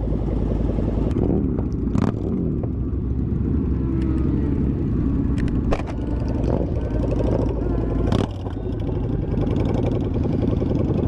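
Vehicle engines running steadily at low speed, a continuous low rumble with a few sharp knocks.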